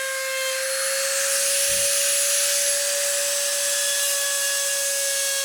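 A small high-speed rotary tool running steadily with a high whine and hiss, working the wood of a rifle stock; its pitch rises slightly about a second in.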